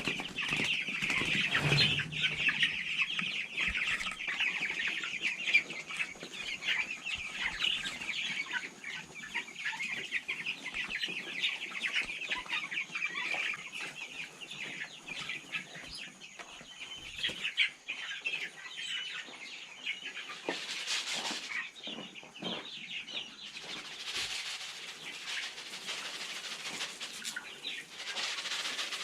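A flock of young chickens cheeping and clucking excitedly at feeding time, with many small taps and clicks. The calling thins out about halfway through, and short bursts of rustling come in the last third.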